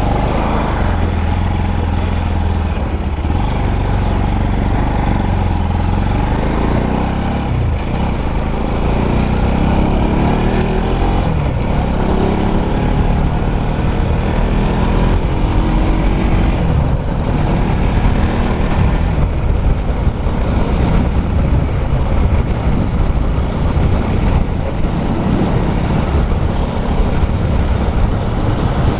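Motorcycle engine running under way, rising in pitch as it accelerates about a third of the way in, over steady wind and road noise.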